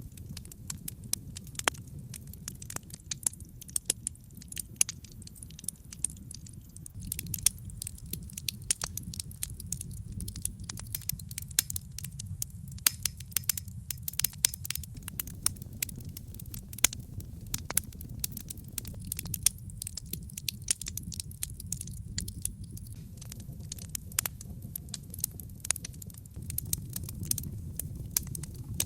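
Wood logs burning in a fireplace, with frequent irregular sharp crackles and pops over a steady low rumble.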